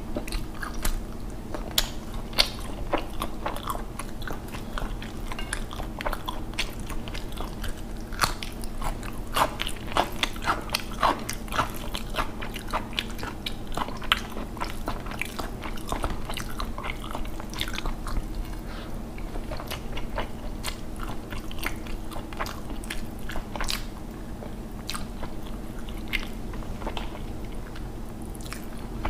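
Close-miked eating sounds of a person eating rice and fish curry by hand: chewing with a dense run of sharp mouth clicks and smacks, over a steady low hum.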